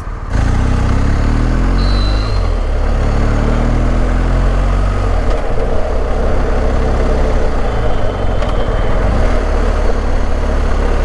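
BMW R1250 GS boxer-twin engine under way, its pitch rising as the bike accelerates in the first few seconds, then running steadily at cruising speed amid heavy low riding noise.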